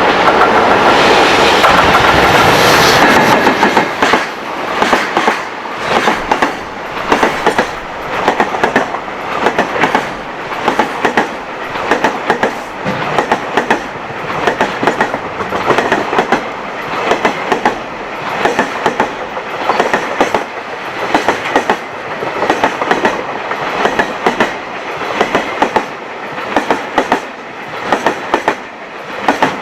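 A long train passing close by: a loud steady rumble for the first three seconds, then the wagons' wheels clattering over rail joints in evenly repeating clusters of clacks, roughly one cluster a second, typical of a long freight train's container wagons.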